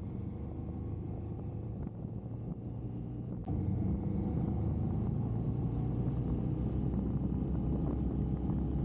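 Honda Africa Twin motorcycle on the move: a steady low rumble of engine and riding noise, which steps up suddenly in loudness about three and a half seconds in.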